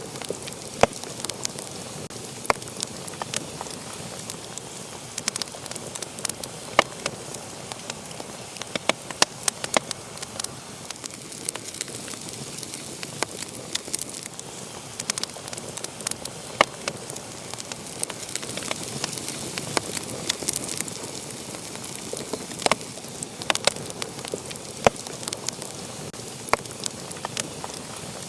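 Wood fire burning in a fireplace, crackling and popping with irregular sharp snaps over a steady hiss.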